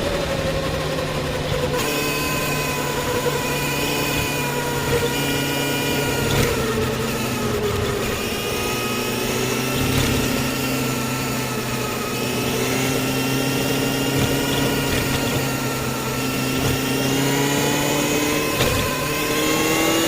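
Yamaha FZ6's 600 cc inline-four engine running under way, its pitch slowly rising and falling with the throttle and climbing near the end.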